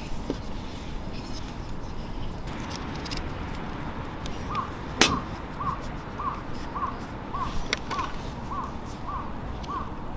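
A bird calling in an even series of short arched notes, two to three a second, starting about halfway in. Scattered sharp clicks sound over a steady background hiss, with one loud crack about five seconds in.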